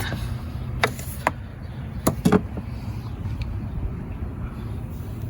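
A few sharp clicks and knocks of parts and hand tools being worked under the hood while the engine vent hose and ignition coil connector are taken off, over a steady low hum.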